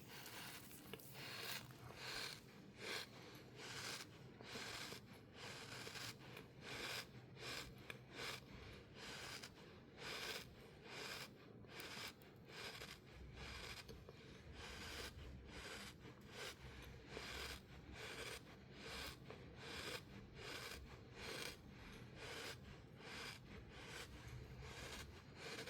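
Crunchy sand being worked in quick repeated strokes, a short dry crunch about twice a second.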